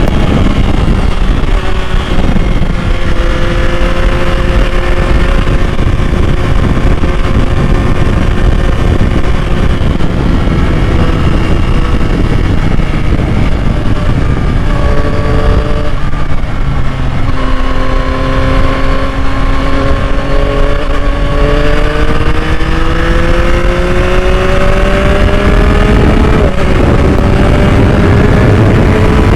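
2021 Yamaha MT-09's 889 cc inline-three engine pulling under way, its pitch climbing slowly and dropping at gear changes, most clearly about 26 seconds in.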